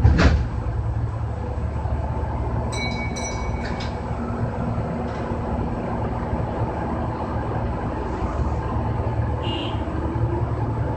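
Kintetsu 6020 series electric train running, a steady low rumble of wheels on rail heard from behind the cab. A loud sharp knock comes right at the start, and a brief high tone sounds about three seconds in.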